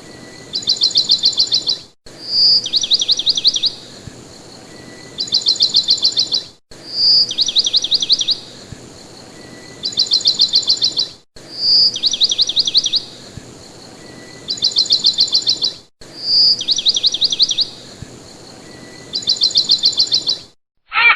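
Bird song: a short high note followed by a rapid trill of about ten notes, repeated in the same way about every four and a half seconds, with the sound cutting out abruptly for an instant between some repeats.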